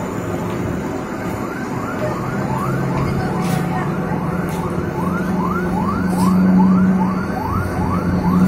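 A short rising call repeating about three times a second, over a steady low engine drone that grows louder partway through.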